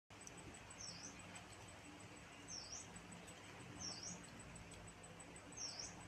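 A bird calling in the background, one short high note that dips and rises again, four times at even intervals of about a second and a half. A faint, even high ticking runs underneath over a low background hiss.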